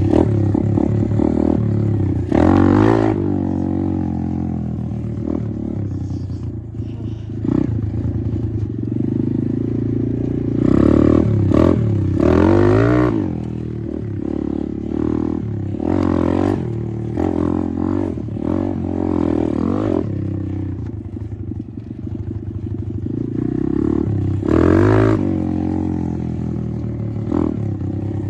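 Apollo RFZ 125 dirt bike's 125cc four-stroke engine running while ridden, its note rising and falling again and again with the throttle. Louder revs come a few seconds in, around the middle, and near the end.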